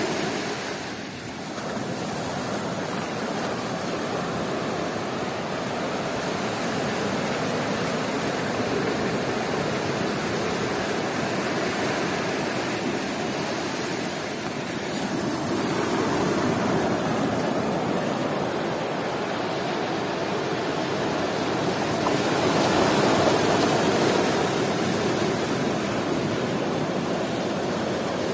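Sea surf washing onto a beach: a continuous rush of waves, swelling louder as waves break around the middle and again near the end.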